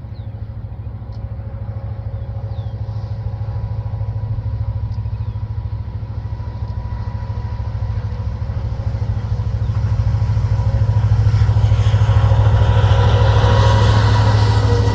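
Diesel-electric freight locomotives, a CN SD70M2 leading an IC C44-9W, approaching, their engines a deep pulsing drone that grows steadily louder. Wheel and rail noise builds over the last few seconds as they draw near.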